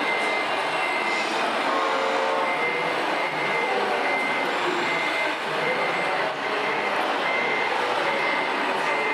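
Reversing beeper of a radio-controlled scale truck, a regular run of short high beeps a little faster than one a second over steady background noise.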